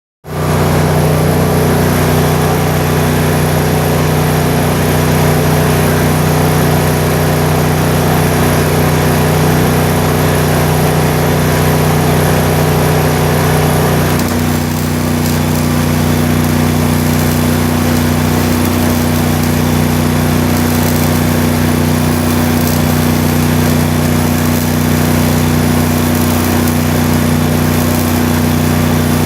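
An engine running steadily, its pitch shifting slightly about halfway through, with a hiss over it.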